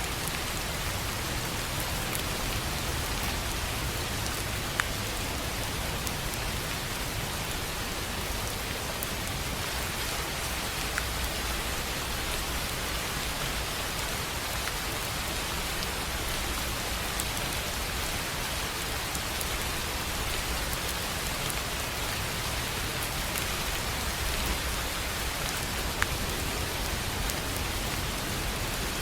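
Steady rain falling on a tin roof, an even hiss with a few louder single drop hits now and then.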